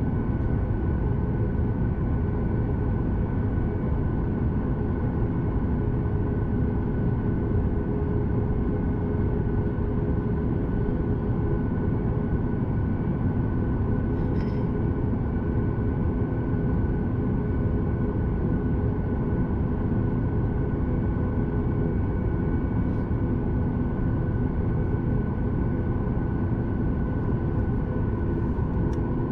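Boeing 737 MAX 8 cabin noise from a rear window seat: a deep, steady rumble with an even hum from the CFM LEAP-1B engines running, unchanging throughout.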